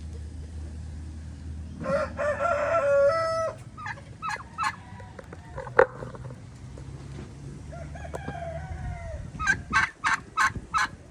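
Poultry calling: one long crowing-type call about two seconds in, then scattered short calls and a quick run of sharp clucking calls near the end, over a steady low hum.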